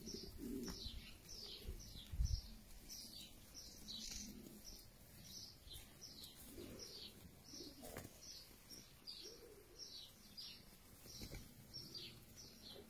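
A bird chirping over and over: short, high chirps that fall in pitch, about two or three a second, with softer low sounds beneath. A brief low thump about two seconds in is the loudest sound.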